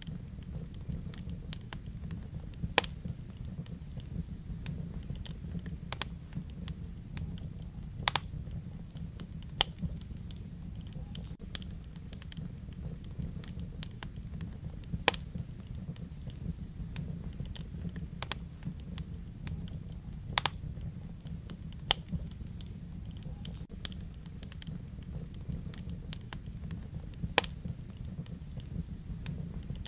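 Wood fire in a fireplace crackling: a steady low rumble with frequent small snaps and a few louder sharp pops every few seconds.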